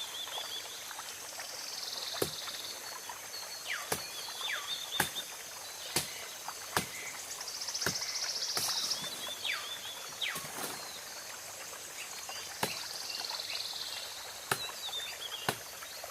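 Irregular sharp chops, a blade striking into a bajakah root (a woody forest liana), roughly every second or two. Behind them is forest ambience: three rising-and-fading insect buzzes and birds giving falling whistles.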